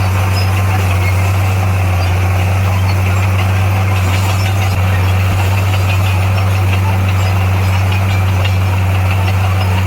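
Heavy diesel engine of earth-moving equipment running at a steady speed, a deep even hum with no change in pitch.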